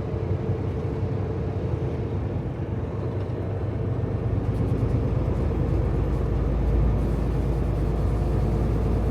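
Tractor-trailer's diesel engine and road noise running steadily, growing a little louder and deeper about halfway through.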